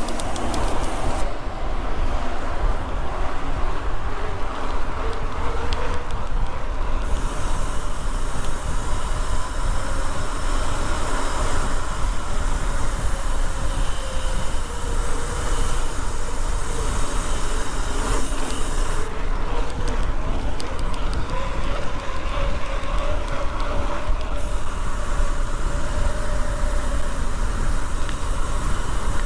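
Steady wind rumble on the microphone of a camera carried on a moving bicycle, with road noise underneath.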